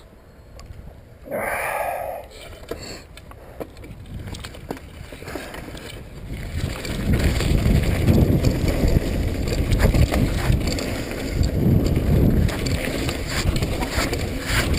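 Mountain bike riding a wet dirt trail: tyres on mud and the bike rattling over bumps, with wind buffeting the microphone. Fairly quiet at first, growing into a loud, steady rumble with frequent small knocks from about six seconds in as speed picks up.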